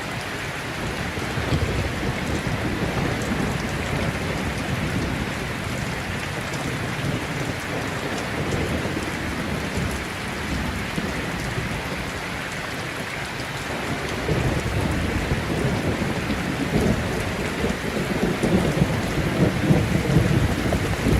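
Heavy rain falling steadily in a thunderstorm, with low rolling thunder that swells about two-thirds of the way through and grows louder near the end.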